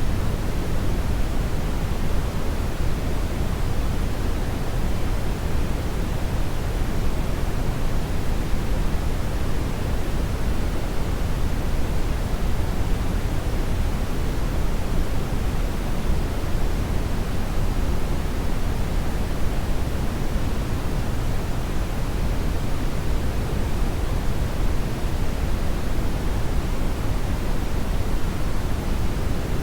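Steady, unchanging rushing noise, strongest in the low end, with no motor whine or pitch in it: a continuous hair-dryer-style white noise.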